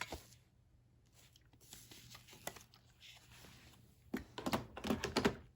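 Hands handling plastic parts, with faint rustles at first and then a quick run of sharp clicks near the end, as the Ozmo Pro mopping module, wrapped in its washable pad, is snapped onto the Deebot T8+ robot vacuum.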